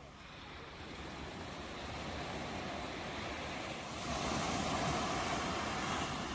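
Ocean surf breaking on a shore: a wave rushes in, building steadily to its loudest about two-thirds of the way through, then eases off.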